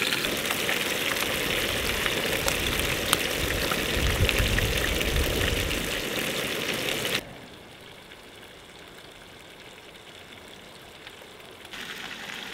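Whole trout sizzling and crackling as it fries in canola oil in a pan. The sizzle cuts off abruptly about seven seconds in, leaving a much quieter background.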